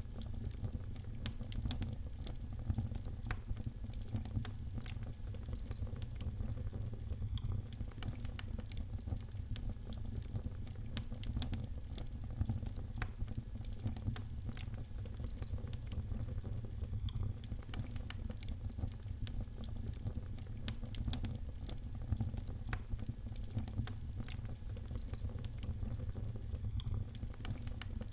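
Wood fire in a fireplace crackling: a dense, irregular run of small sharp crackles and pops over a steady low rumble.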